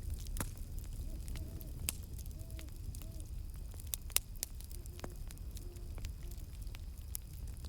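Wood campfire burning with a steady low rumble and scattered sharp crackles and pops, the loudest about 4 s in. Faint, distant owl hoots come in two short series of soft notes, a few seconds apart.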